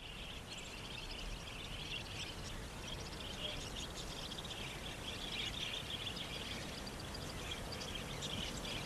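Budgerigars chirping: a continuous, dense, high twittering of many small calls over a low background hum of outdoor ambience.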